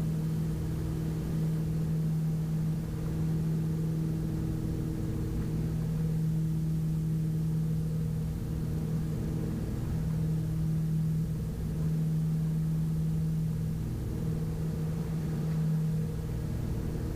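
Steady cabin drone of a Piper Navajo Panther's twin piston engines and propellers during the climb: a low, even hum whose strength wavers slightly.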